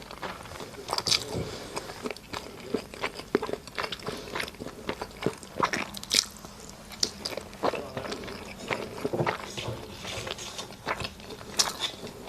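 Close-miked eating: a person biting and chewing food, with a steady run of irregular wet mouth clicks and smacks.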